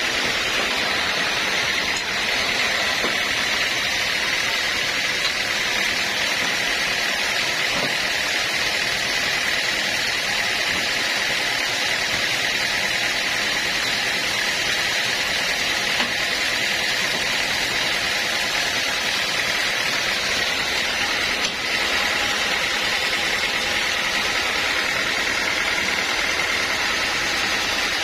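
Sawmill machinery running steadily: a constant loud mechanical noise with a steady high whine.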